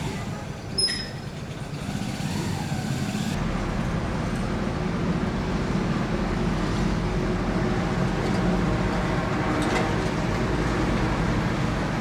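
Street traffic: a motor vehicle's engine running close by, a low rumble that builds about two seconds in and then holds steady. A brief sharp click with a short high squeak comes about a second in.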